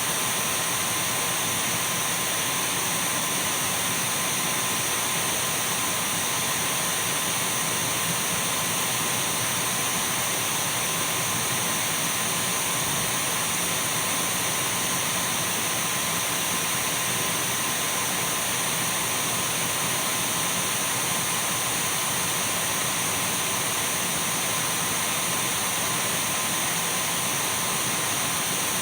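Dyson V12 cordless stick vacuum cleaner running at a constant speed: an even rush of air with thin, steady whine tones over it.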